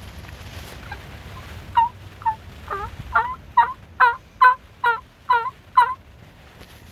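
A turkey yelping: a run of about nine short yelps, roughly two a second, each note breaking from a higher to a lower pitch.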